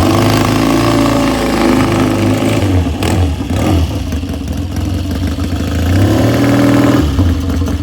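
Motorcycle engine running and being revved, its pitch climbing about six seconds in and dropping back a second later.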